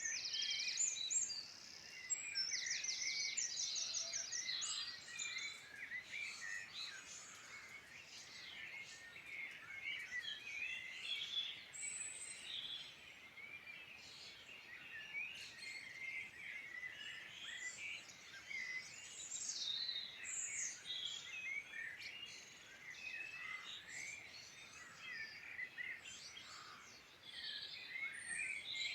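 Several songbirds singing at once, a busy run of overlapping chirps, whistles and warbles, with a fast trill about two to three seconds in.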